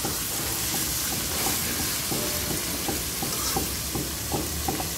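Chicken pieces sizzling as they fry in hot oil in a metal wok, stirred with a metal spatula that scrapes and knocks against the pan in short ticks.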